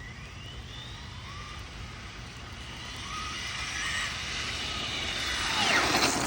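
A car passing by on a wet road: tyre hiss and engine build slowly, peak near the end as it goes past with the pitch dropping, then fall away.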